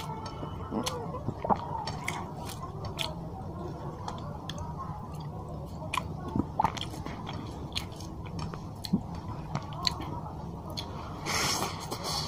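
Close-up mouth sounds of a man eating rice and fish curry by hand: chewing, with scattered wet clicks and lip smacks. A short louder wet burst comes near the end.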